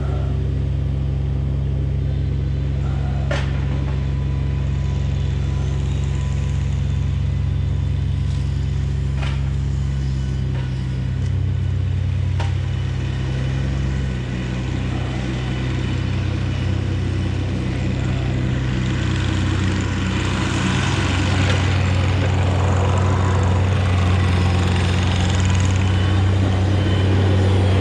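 A truck engine running steadily with a low drone, its speed shifting about ten to fourteen seconds in, with a few sharp clicks early on. From about twenty seconds in it gets louder and a hiss joins.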